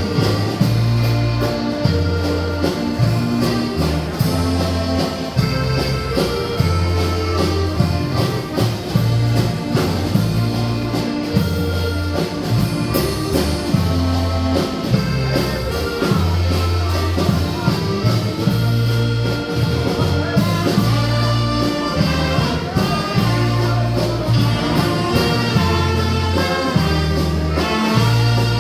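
A brass band playing a tune, with trumpets and trombones over a bass line of held low notes that change every second or so.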